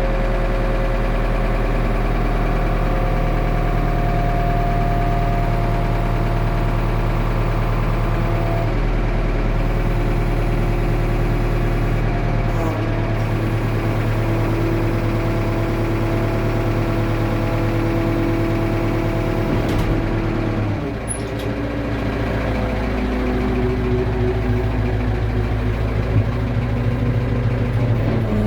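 JCB 3CX backhoe loader's four-cylinder diesel engine running steadily at idle after a cold start. The engine note changes slightly about twelve seconds in and dips briefly around twenty-one seconds in.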